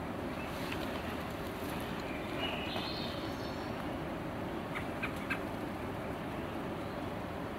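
Steady background hiss outdoors, with a short bird call that rises in pitch in small steps about two and a half seconds in, and a few faint clicks.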